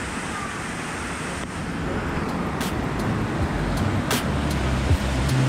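Steady rush of a rain-swollen river, getting a little louder partway through, with a few sharp knocks in the second half.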